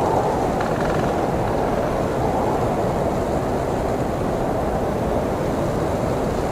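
Blizzard wind blowing steadily, a dense, deep rushing noise that holds at an even level.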